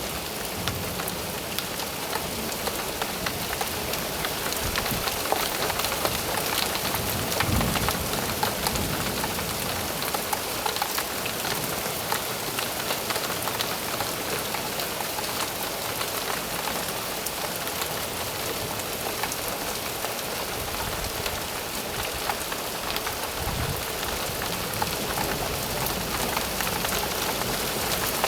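Steady heavy rain, a dense patter of drops striking a surface, with brief low thunder rumbles about a quarter of the way in and again near the end.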